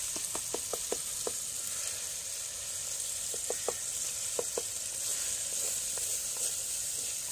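Chicken karahi sizzling steadily in a steel karahi, with quick runs of short taps as a wooden spatula stirs against the pan in the first second and again around three and a half and four and a half seconds in.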